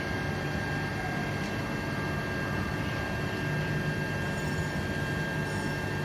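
Steady engine drone with a thin high whine, running without change.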